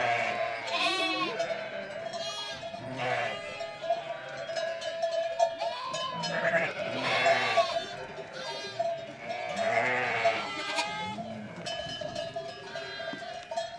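A flock of farm animals bleating: many overlapping calls about every second, over a steady bell-like ringing tone.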